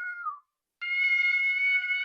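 A cat meowing in long, drawn-out, even-pitched meows. One trails off with a falling pitch about half a second in, and another starts just under a second in and holds steady.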